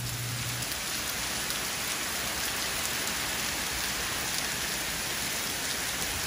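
Heavy hurricane rain pouring steadily onto a wet paved street and parked cars, an even hiss with no let-up.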